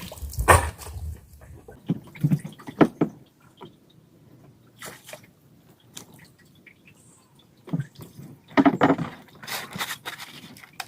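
Irregular small splashes and drips of water, with short sharp clicks, as live shrimp and a wet cast net are handled.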